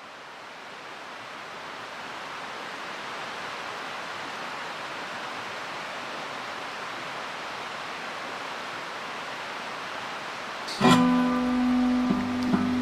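A steady rushing noise fades in and holds for about ten seconds. Near the end an acoustic guitar is strummed, followed by a few more plucked notes.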